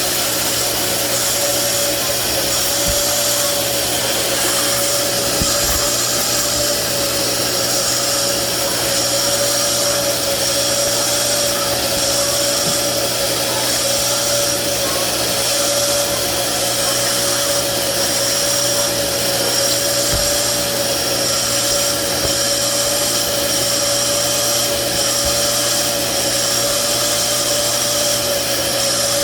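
Hoover Power Dash portable spot cleaner running loudly and steadily, its suction motor giving a constant whine that wavers slightly as it scrubs and sucks dirty solution out of a stained car seat.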